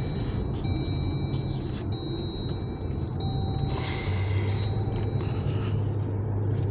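Steady low road rumble inside a moving car's cabin, the engine and tyre drone growing a little stronger about four seconds in.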